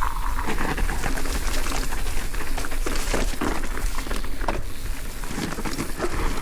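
Steady low wind rumble on the microphone with a constant hiss, broken by many small rattles and knocks.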